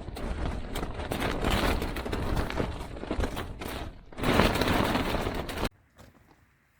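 Naturehike Cloudpeak 2 tent fabric flapping and cracking rapidly in gale-force wind gusts. The sound stops abruptly near the end.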